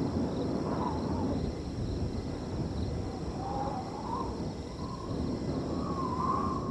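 Wind blowing steadily across a field, with a wavering whistle that comes and goes about a second in, near the middle, and again toward the end. Crickets trill steadily and high underneath.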